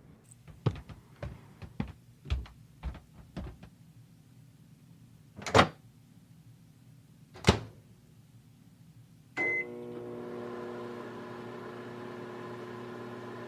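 A run of light clicks and knocks and two louder thuds, then a short beep about nine seconds in and a microwave oven starting up, running with a steady hum.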